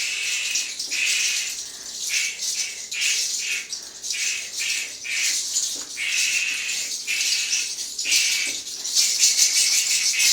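A bundle of fresh herbs swished and brushed over a person, the leaves rustling in quick, uneven strokes.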